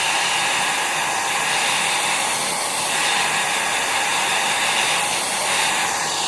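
Small handheld hair dryer running steadily, blowing a wet ink-and-colour painting dry.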